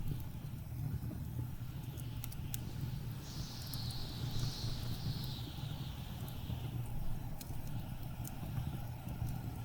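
Wood fire crackling with scattered sharp pops over the steady low rumble of blizzard wind; a higher gust of wind hiss swells about three seconds in and dies away by about seven seconds.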